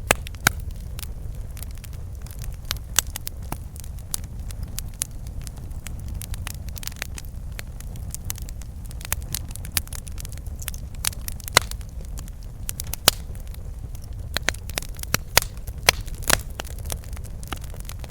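Campfire burning, with wood crackling and popping in sharp, irregular snaps over a steady low rumble.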